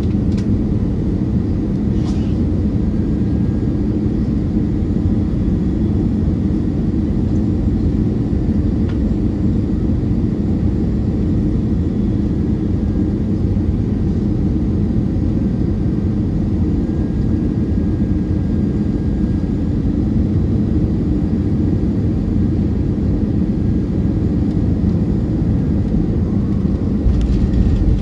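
Steady cabin noise inside an Airbus A320-212 airliner: a low rush of airflow and hum from the CFM56 engines. It swells a little in the last second or so.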